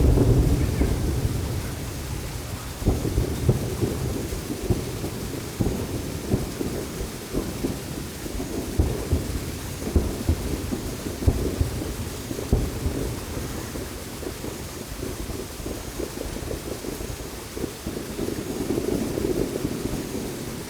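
Aerial fireworks shells bursting in quick succession, many booms overlapping into a continuous low rumble. The loudest burst comes right at the start.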